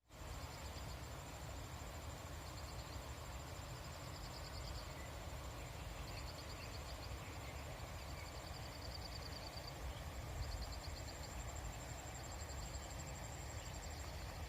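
Rural field ambience: a steady high-pitched insect drone with short trills repeating every second or two, over a low rumble.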